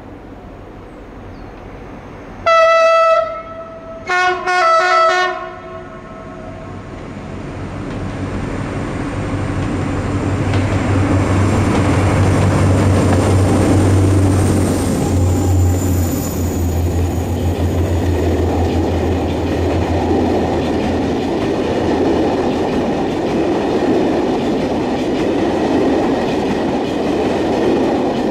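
Two SNCF BB 67400-family diesel locomotives (BB 67615 and BB 67522) hauling a train. A short horn blast comes about two and a half seconds in, then a two-note horn blast. After that the locomotives' deep engine drone grows as they approach and pass, followed by the rumble and clickety-clack of the carriages going by.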